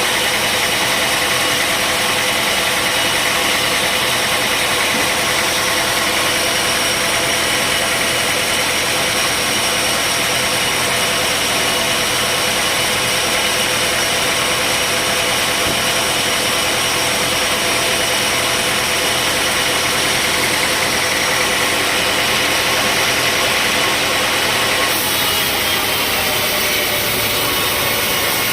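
Sawmill machinery running steadily: a continuous engine drone with several steady high tones over it. The sound changes slightly near the end.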